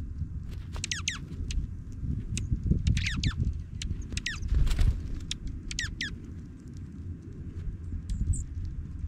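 Small songbirds calling in four quick bursts of short, high chirps that sweep sharply downward in pitch. A steady low rumble runs underneath.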